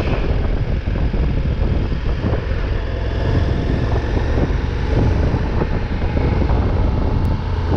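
Adventure motorcycle engine running steadily while riding, with wind rushing over the microphone.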